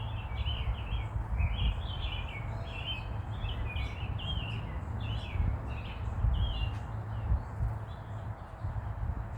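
Small birds chirping continuously, a stream of short, quick notes that rise and fall, over a steady low rumble.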